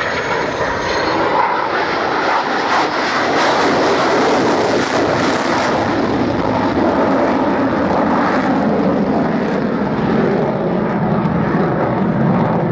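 F-16 fighter jet passing low and slow on an approach with its undercarriage down, its jet engine a loud rushing noise that swells over the first few seconds and stays loud.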